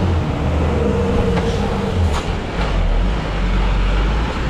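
A motor vehicle's engine running with a steady low rumble, amid road traffic noise, with a few faint clicks about two seconds in.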